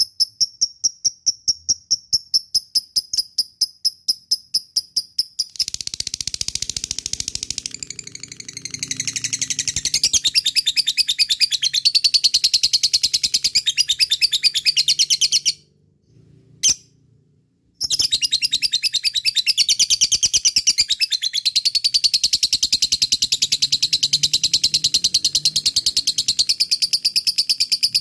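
Lovebirds' long, rapid 'ngekek' chatter: high, fast repeated notes, about five a second at first, turning denser and fuller about six seconds in. It breaks off for about two seconds past the middle, with a single click, then carries on.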